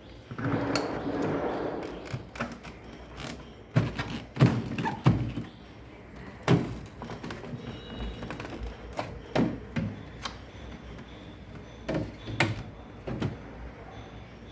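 Irregular thunks and knocks from parts and tools being handled on a refrigerator during a thermostat replacement, with a rustling noise in the first couple of seconds.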